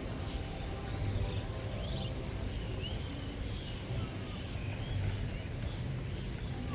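Small birds calling: short, scattered chirps and brief gliding whistles, over a steady low rumble.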